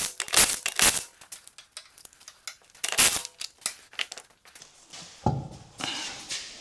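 Crinkling, rustling and tearing sounds of material being handled, in a quick string of sharp strokes in the first second and again about three seconds in, with a duller knock a little after five seconds.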